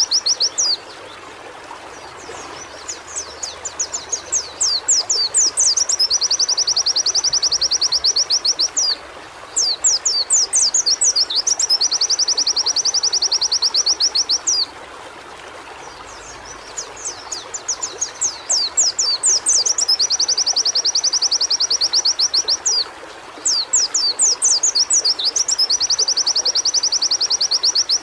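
A pleci (white-eye) singing loudly. Runs of quick, high sweeping chirps lead into a fast, even, high trill lasting two to three seconds, and the phrase repeats about four times over a steady background hiss.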